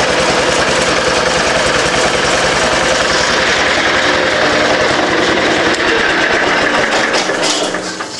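The Allis Chalmers 912's 12 hp Kohler single-cylinder engine running steadily, its firing beat even and strong, just after a start with a little choke. The sound falls away near the end.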